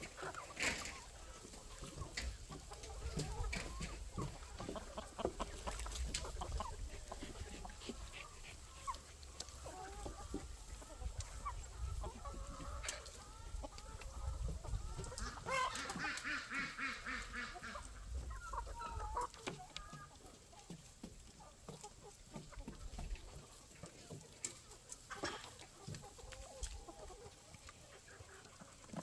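Flock of chickens clucking and calling, many short overlapping calls, with one longer, louder call about a second and a half long around the middle. A low rumble runs under the first two-thirds.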